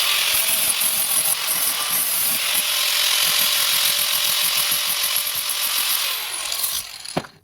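Handheld electric grinder cleaning up metal on a car bumper: it starts abruptly, runs steadily for about seven seconds with a hissing grind, then winds down and stops near the end.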